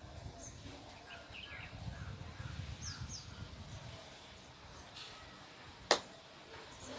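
Small birds chirping faintly in short calls over a low background rumble, with one sharp click about six seconds in.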